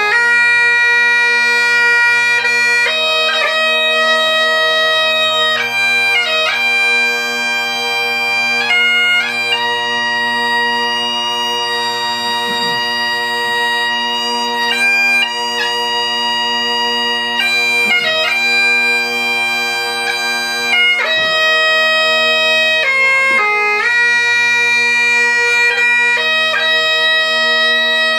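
Bagpipe playing a slow tune over its steady drones. The melody moves between long held notes, with quick grace-note flourishes at each change of note.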